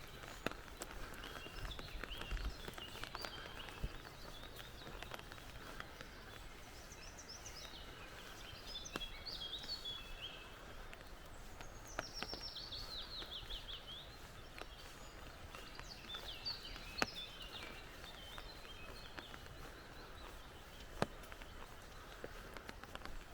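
Forest birds singing in separate phrases, one of them a quick descending run of notes, over a faint steady background hiss. Footsteps on the forest trail give a few sharp clicks.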